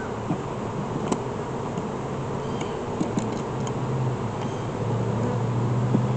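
Honeybees buzzing around an open, agitated hive: a steady hum that swells in the second half as bees fly close, with a few light clicks of frames being handled.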